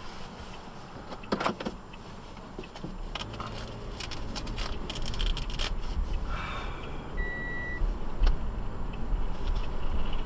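A car's low engine and road rumble building from about three seconds in, with scattered clicks and rattles. A single short beep sounds about seven seconds in.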